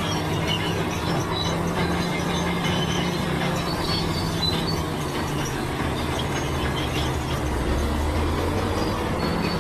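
Crawler bulldozer at work: the diesel engine runs steadily under the high squeal and clank of its steel tracks. The engine note shifts lower near the end.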